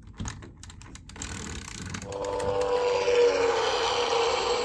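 Helicopter sound effect played through the small speaker of a VTech Switch & Go Dinos velociraptor-helicopter toy: a whirring rotor-and-engine hum that starts about a second in and grows louder, then holds steady. A few light clicks come before it.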